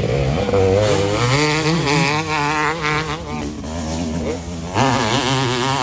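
Two-stroke motocross bike engine buzzing at high revs, its pitch wavering rapidly up and down as the throttle is worked.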